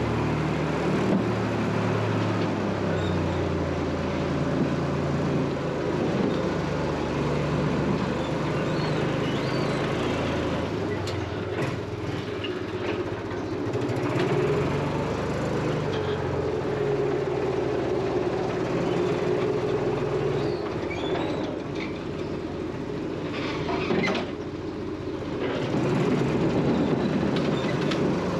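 A motor vehicle engine running steadily, its pitch shifting up and down as the engine speed changes.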